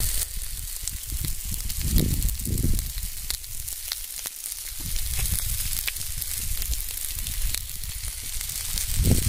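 Marinated chicken pieces sizzling on a hot stone slab set over a fire: a steady hiss dotted with many small pops and crackles, over a low rumble.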